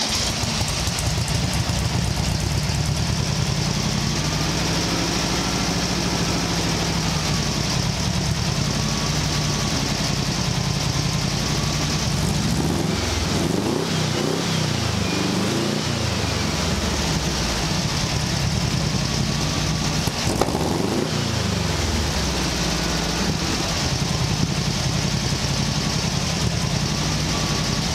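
Air-cooled VW 1600cc dual-port flat-four, fed by a homemade throttle-body fuel injection system on E51 ethanol, idling steadily. Its throttle is blipped by hand several times in quick succession a little before halfway, and once more about three-quarters of the way through, each time rising and falling back to idle.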